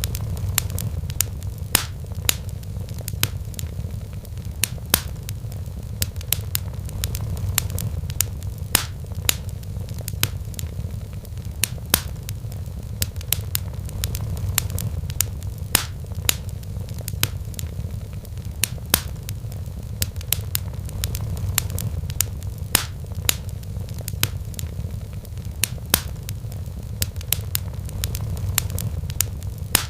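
Wood fire crackling in a fireplace, with irregular sharp pops several times a second. Underneath runs a low, steady cat purr that swells gently every few seconds.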